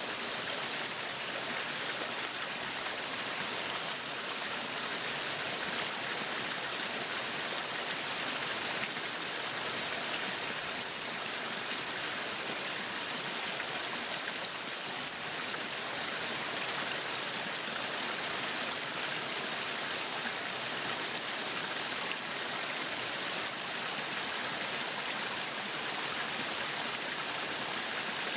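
Meat sizzling on a yakiniku grill, a steady, dense sizzle that does not change.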